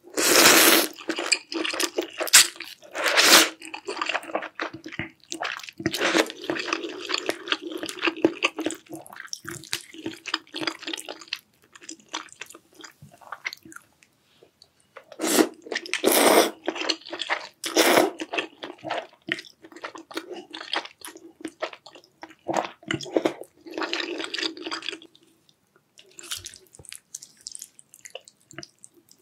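Close-miked eating of jjamppong, a spicy seafood noodle soup: loud wet slurps of noodles and broth come in repeated bursts, with moist chewing and small mouth clicks in between.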